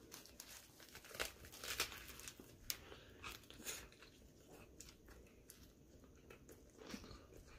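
Faint, irregular crunching and chewing of a bite of lettuce wrap with crispy-skinned air-fried pork belly, with a few louder crunches in the first four seconds.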